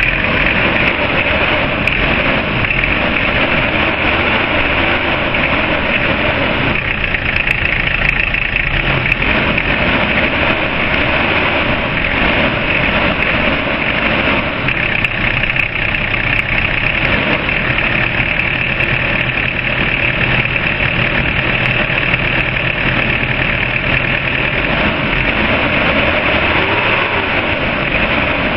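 Suzuki Grand Vitara RF1 engine idling steadily just after starting.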